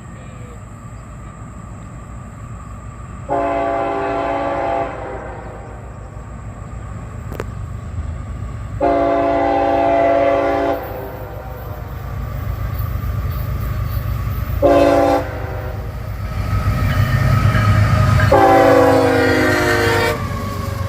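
CSX diesel locomotive's air horn sounding the grade-crossing signal: long, long, short, long. A low rumble from the approaching train grows louder underneath.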